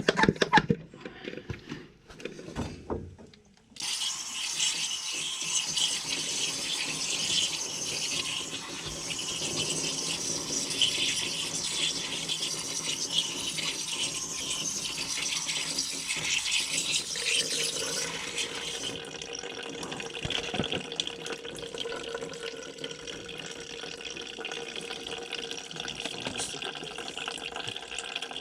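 Water spraying onto a dirty HVAC coil to rinse it, starting about four seconds in as a steady hiss. About two-thirds of the way through the hiss softens and a steady hum runs under it.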